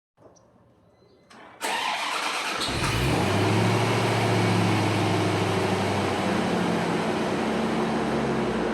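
C4 Corvette V8 being started: the starter cranks about one and a half seconds in, the engine catches about a second later and then settles into a steady idle through the exhaust.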